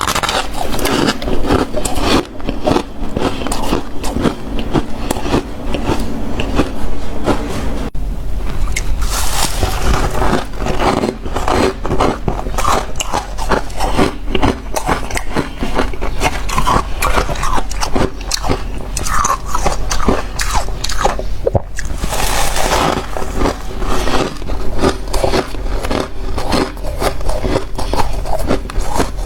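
Freezer frost being bitten and chewed close to the microphone, a dense, continuous crunching of ice crystals, with louder fresh bites about nine seconds in and again a little after twenty seconds.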